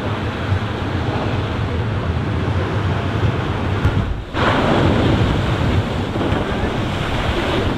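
Ocean waves surging and breaking, with wind buffeting the microphone. The sound drops out briefly about four seconds in, then comes back as a louder rush of water.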